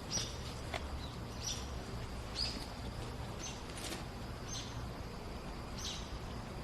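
A small bird chirping: short, high, slightly falling chirps, roughly one a second, over a steady low rumble of background noise.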